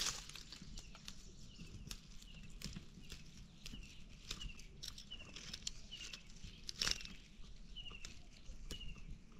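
A bird repeats a short, high, falling note about once a second. Over it come soft snaps and rustles of tender phak wan (Melientha suavis) shoots being picked and handled, with one sharper snap near the seven-second mark.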